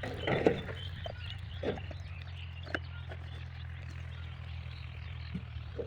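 A 5 hp diesel water-pump engine running steadily with a low, even chugging, with a few short knocks over it.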